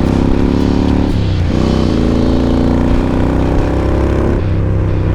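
Kawasaki Vulcan bobber's engine accelerating on the road, its pitch climbing, dropping sharply at a gear change about a second in, climbing again, then falling away near the end.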